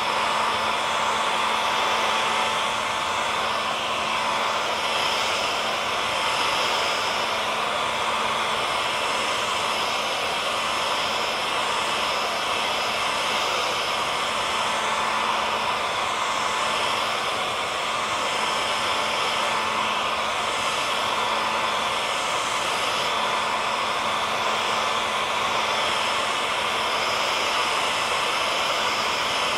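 Hair dryer running steadily, a continuous airy rush with a faint steady motor hum.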